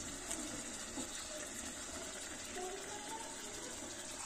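Chicken pieces frying in a steel kadhai, a steady sizzling hiss, with a few faint clicks of the slotted spoon stirring them.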